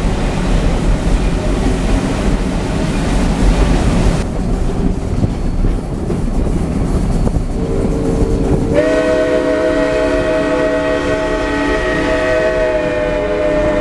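Narrow-gauge train rumbling along the track. About halfway through, the steam locomotive's multi-note chime whistle comes in softly, then sounds one long, loud blast that holds to the end.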